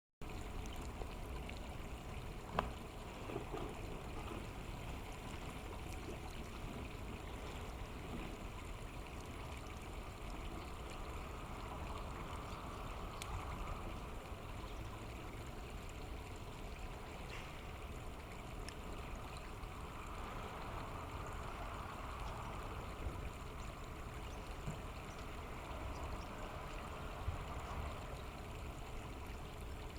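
River water running in a steady rush, with one sharp click about two and a half seconds in.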